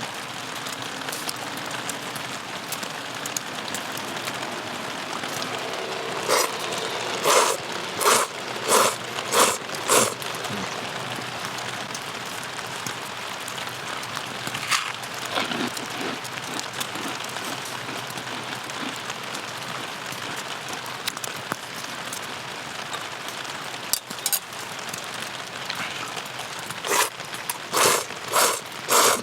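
Steady rain falling. Twice, about six seconds in and near the end, a run of about five loud crunching strokes sounds at an even pace, under a second apart.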